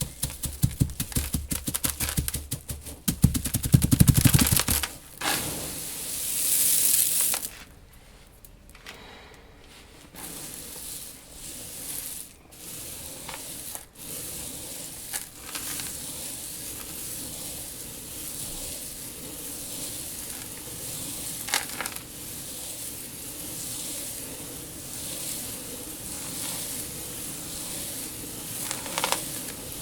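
Dry seeds being stirred and poured in a tank. A rapid clatter of many small grains for the first few seconds, a brief swish, then a quieter steady crackling trickle with occasional single ticks.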